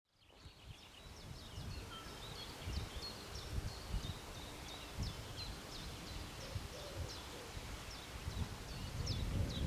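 Small birds singing, a busy run of quick high chirps, over a low gusty rumble of wind that grows louder near the end.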